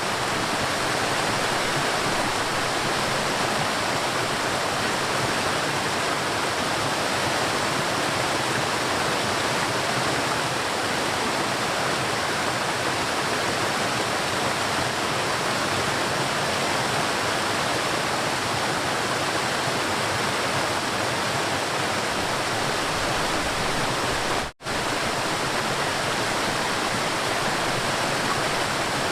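River water rushing steadily, an even wash of flowing-water noise. It drops out for an instant about three-quarters of the way through.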